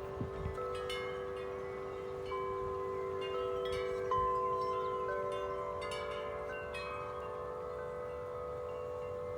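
A collection of large tuned tubular wind chimes, struck over and over by strong wind. Many notes overlap and ring on, with one louder strike about four seconds in.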